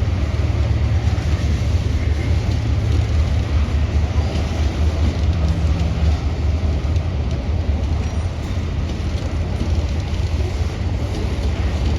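Ferrosur diesel locomotives running, a steady deep rumble with a noisy wash over it.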